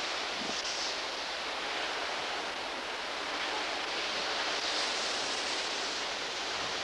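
Hurricane-force wind blowing hard and steadily, a continuous rushing that swells in a gust about two-thirds of the way through.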